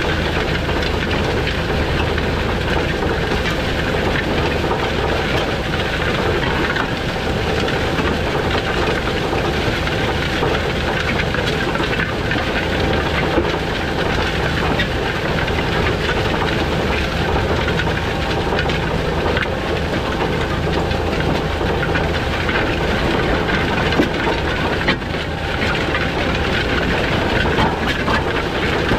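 John Deere 7730 tractor's six-cylinder diesel engine running steadily under a dense mechanical hiss and rattle, with no change in engine speed.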